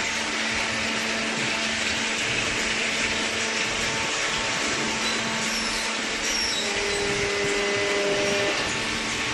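Hydraulic power unit of a double-cylinder vertical carton baler running steadily, a constant hum under a hiss, with a brief higher tone late on.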